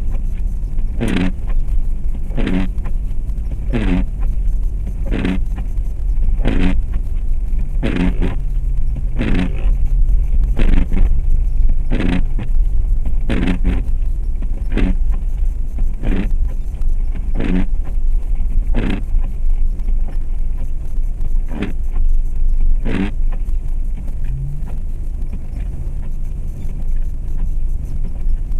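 Inside the cabin of a 2004 Jeep Grand Cherokee with a 4.7 L V8, driving in snow: steady engine and road rumble, with a short sweeping sound that repeats evenly about every one and a half seconds.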